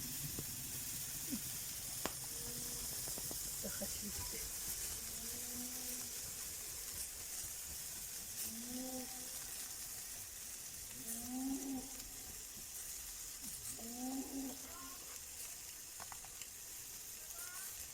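Chicken sizzling on a grill over a wood fire: a steady hiss with a few sharp crackles.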